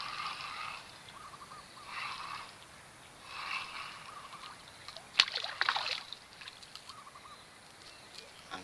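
Water splashing and sloshing as a hooked tilapia is reeled in and landed, with a sharp splash about five seconds in followed by a short burst of splashing.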